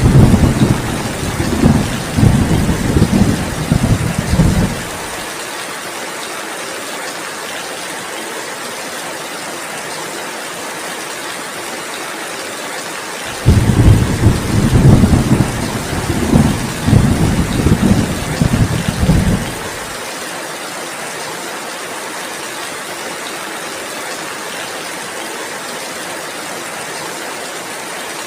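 Steady heavy rain with two rolls of low thunder over it: one already rumbling at the start that dies away about five seconds in, and a second that starts about halfway through and rolls on for about six seconds.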